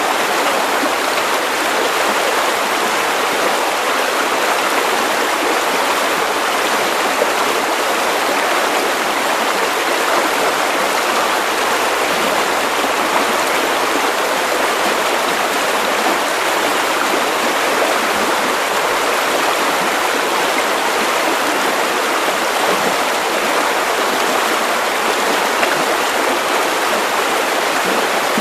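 Steady white noise: an even rushing hiss with no rhythm or change, weighted to the middle range, with little bass.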